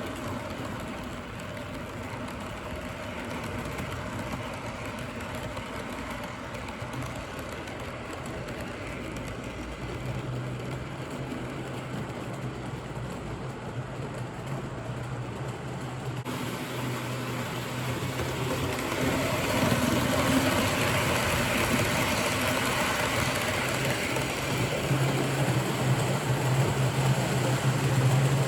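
Norfolk Southern 1446 model diesel locomotive running on the layout's track: a steady low hum with a rattling running noise above it, growing louder about two-thirds of the way through.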